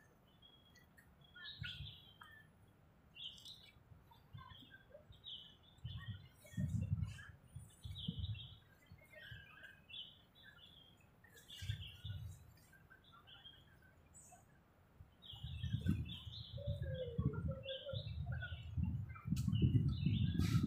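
Small birds chirping and calling repeatedly from the trees, short high notes coming every second or so. Low rumbles come and go underneath and grow louder over the last few seconds.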